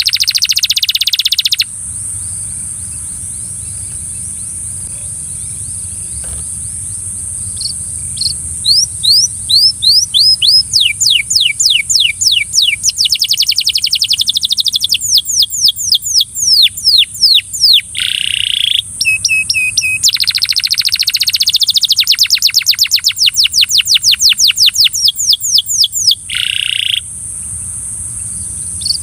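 Belgian canary singing in fast rolling trills of quick downward-sweeping notes, in two long bouts separated by short pauses, with a steady high-pitched hiss underneath.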